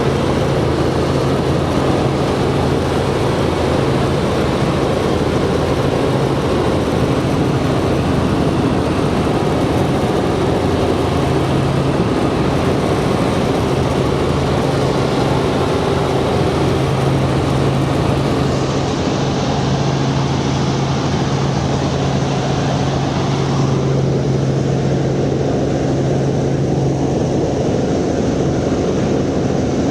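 Helicopter turbine and rotor running steadily: a loud, even drone with a low hum under it, its higher hiss thinning out about two-thirds of the way through.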